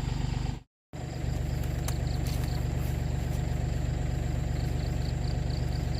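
An engine idling steadily, with the sound cutting out completely for a moment just under a second in.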